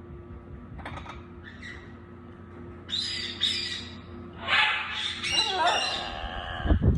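Baby parrots calling: a few short chirps, then louder squawks about three seconds in and a longer, wavering call in the second half. A low thump comes just before the end.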